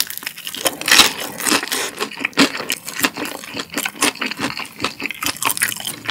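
Crunchy chewing of a crispy fried cheese dumpling, picked up close by an ASMR microphone: a rapid run of crisp crackles, loudest about a second in.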